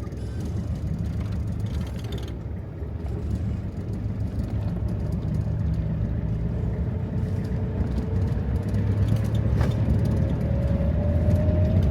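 Car engine and road noise, heard from inside the car. An engine tone rises gradually through the second half as the car picks up speed.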